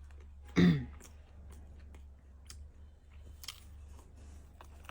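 People chewing food, with small scattered mouth and tableware clicks. There is one short, loud vocal sound falling in pitch about half a second in, and a steady low hum runs underneath.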